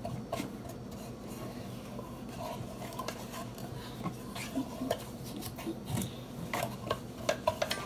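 A paintbrush scrubbing and dabbing on a wooden birdhouse, with scattered light taps and clicks, some louder near the end.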